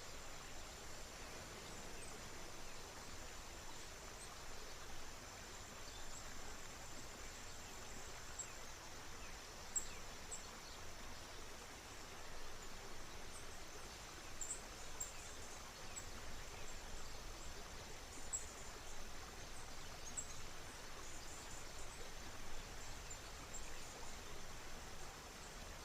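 Faint, steady outdoor ambience: an even wash of river water, a steady high insect drone, and scattered short, high chirps. One chirp stands out, a little louder than the rest, about ten seconds in.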